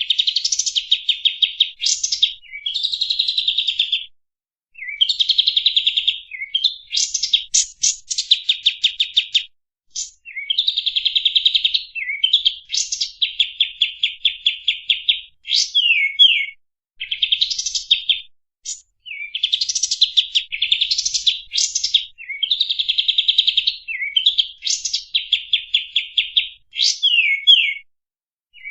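Kapas tembak songbird singing: rapid chattering trills mixed with sharp sweeping notes, in phrases of one to four seconds separated by short pauses.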